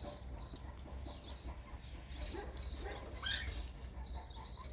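Birds chirping in short calls repeated every fraction of a second, over a low steady rumble.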